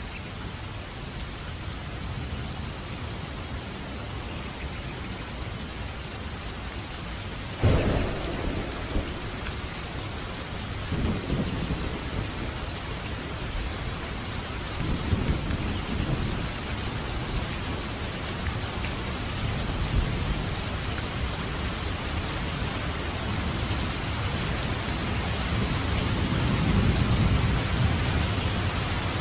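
Steady heavy rain falling on a roof, with a sharp thunderclap about eight seconds in, followed by several long, low rolls of thunder that come and go through the rest of the storm.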